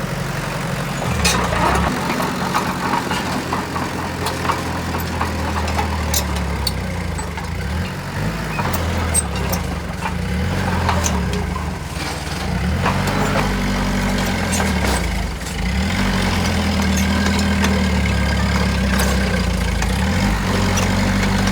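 Heavy diesel engine of construction machinery running under varying load, its pitch shifting a few times, with scattered metallic clanks and knocks.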